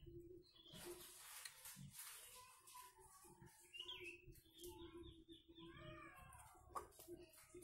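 Near silence with faint bird chirps in the background and a faint steady hum.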